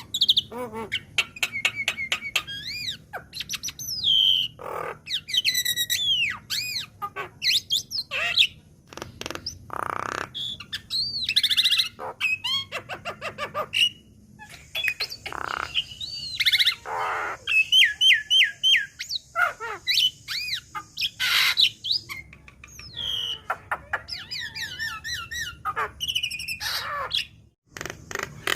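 Javan myna chattering and singing: a rapid, varied run of rising and falling whistles, harsh squawks and clicks, broken by a few brief pauses.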